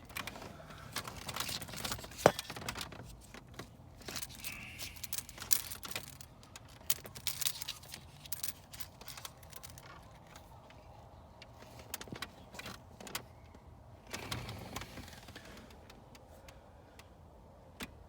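Irregular clicks, rattles and scrapes of hands fitting a PCV valve and its hose back into the engine bay of a Chevrolet Astro van, with one sharp knock about two seconds in.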